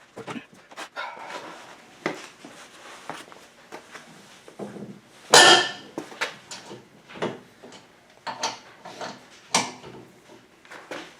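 Irregular clanks, clicks and knocks of hand tools and metal parts as a VW link-pin front end is taken apart, with one louder, longer clatter about five and a half seconds in.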